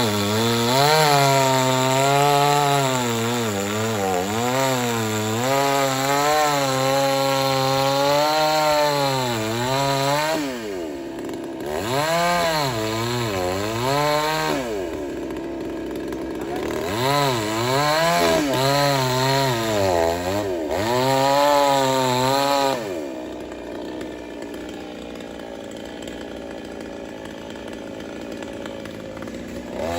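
Two-stroke chainsaw cutting into wood, its engine pitch wavering up and down under load and easing off and sweeping back up twice. About two-thirds of the way through the engine tone drops away, leaving a quieter steady hiss.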